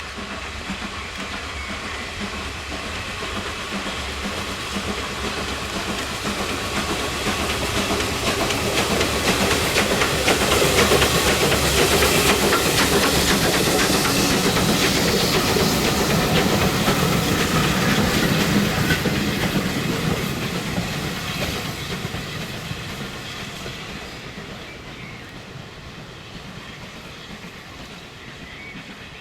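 Steam-hauled heritage train passing: it grows louder for about ten seconds, is loudest through the middle, then fades away.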